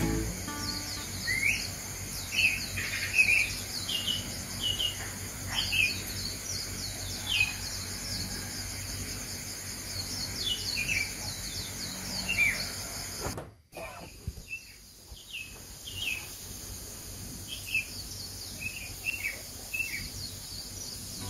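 Small birds chirping: many short, quick, falling calls, irregular and overlapping, over a steady high hiss. The sound drops out for a moment about two-thirds through and comes back quieter.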